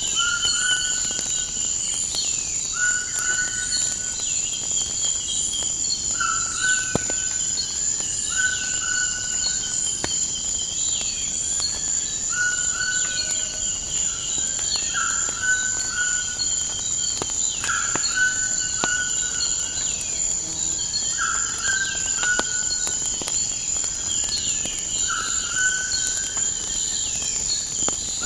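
Nature ambience: crickets trilling steadily and high, with a bird repeating a short rising-then-level call every one to two seconds and other birds chirping. A few faint crackles of a fire are scattered through it.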